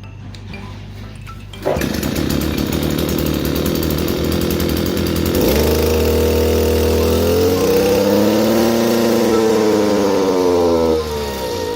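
Kioritz SRE2350G brush cutter's small two-stroke engine running, revved from idle about halfway through, its pitch climbing and then falling, and dropping back to idle near the end. It is running and revving freely after its clogged muffler has been cleaned.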